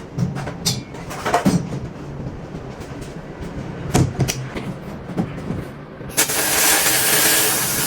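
Scattered light clicks and knocks of workshop parts being handled. A steady hiss starts about six seconds in.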